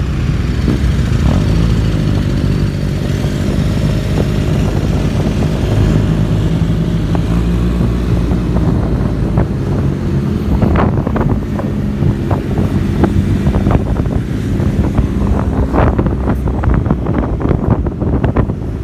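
Motorcycle engine running steadily, with many short knocks and crackles in the second half.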